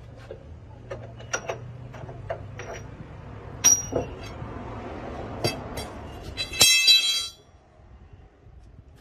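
Metal tapping and clinking over a low steady machine hum, then a loud ringing clang of struck metal near the end, after which the hum stops.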